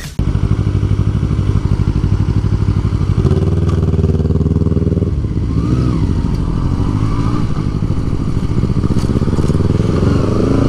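Motorcycle engine running under way: the engine note holds steady, drops about five seconds in, then climbs steadily near the end as the bike accelerates.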